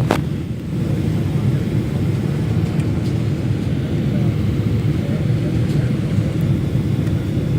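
Steady low rumble of a Boeing 777-300ER airliner, with one sharp click at the very start.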